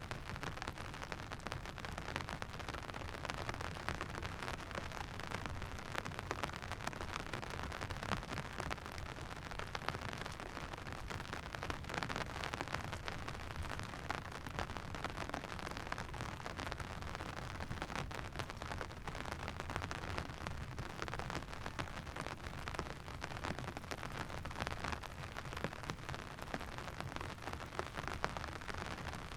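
Steady rain falling, with many small drop hits close together and no break.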